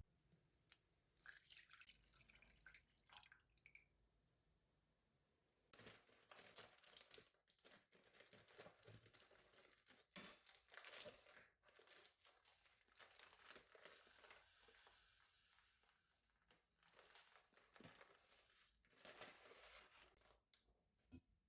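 Faint crinkling and rustling with scattered small clicks, in irregular bursts after a quieter first few seconds.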